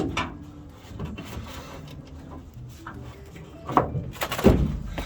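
Hand tools clattering and knocking as they are handled and rummaged through, with a sharp knock at the start and a few loud knocks near the end.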